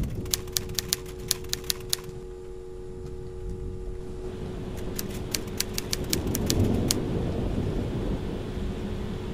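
Typewriter key strikes, a sound effect for on-screen text being typed out: a quick run of clacks in the first two seconds and another run about five seconds in, over a steady low rumble and hum.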